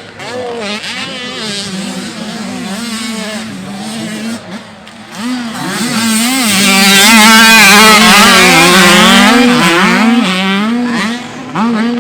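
Dirt bike engines racing, their pitch rising and falling as the riders work the throttle. The sound swells to its loudest in the middle as a bike passes close, then eases off.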